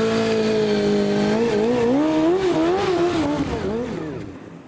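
Car engine held at steady revs, then revved up and down a few times, fading out near the end.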